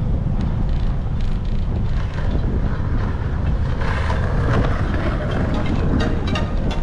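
Wind buffeting a bike-mounted action camera's microphone while riding, a steady low rumble. A scatter of sharp clicks and rattles comes in the second half.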